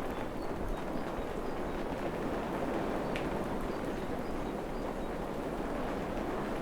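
Steady rain falling on a forest, an even hiss with a few drip-like clicks, one clearer about three seconds in. Faint, short high chirps sound through it every half second or so.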